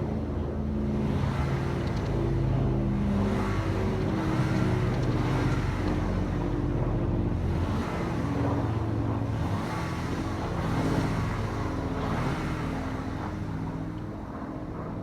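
2017 Audi Q5's 2.0-litre TFSI turbocharged four-cylinder engine running after start-up, heard as its exhaust note, with the engine speed rising and falling.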